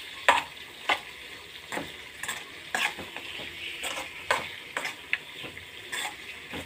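Boti (goat tripe) fry sizzling in a kadai while a metal spoon stirs it. The spoon scrapes and clinks against the pan irregularly, about once or twice a second, over a steady hiss.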